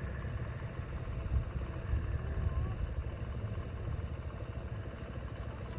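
A small engine running steadily at idle, a low pulsing rumble.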